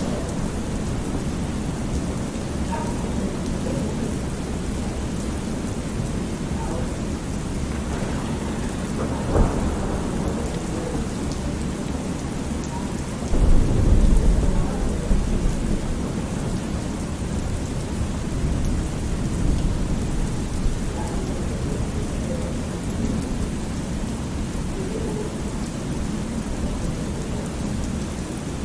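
Thunderstorm ambience: steady rain with rolling thunder, and a louder low rumble of thunder about halfway through.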